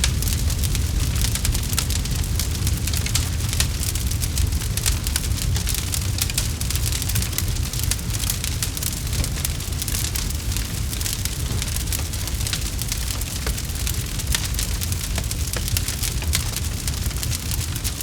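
Campfire crackling steadily: a dense run of small sharp pops and snaps over a low steady rumble of the burning fire.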